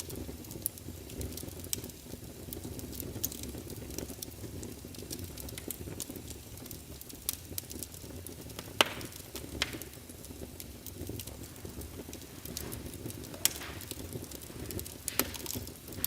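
Wood fire crackling in a fireplace: a steady low rumble of flames with frequent small snaps and a few louder pops.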